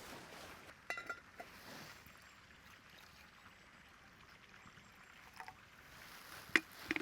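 Faint outdoor background hiss with a few short knocks and clicks: a small cluster about a second in, and two sharp clicks near the end.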